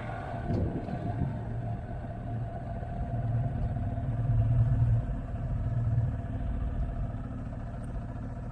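Motorcycle engine running under way, a steady low drone that swells louder about three seconds in and eases back after about six seconds.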